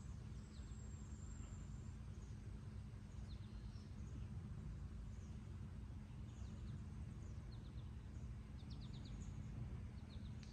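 Outdoor ambience: faint, scattered bird chirps over a steady low rumble, with a quick run of about four chirps near the end.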